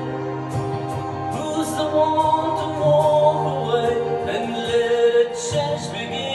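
Several voices singing together in harmony, with a low held bass part under sustained higher notes.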